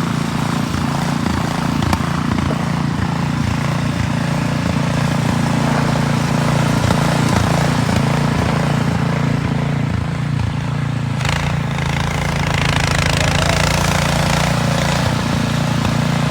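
Snowblower's small engine running steadily, with a hiss that swells about twelve seconds in.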